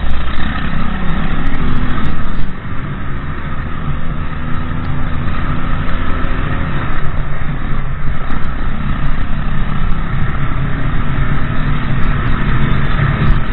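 Motorbike engine running steadily on the road, with continuous road noise; the overall level drops slightly about two and a half seconds in.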